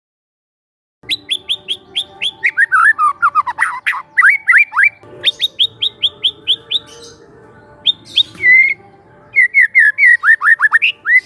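A young white-rumped shama (murai batu) singing. After about a second of silence it gives quick runs of short, falling whistled notes, several a second, in four bursts.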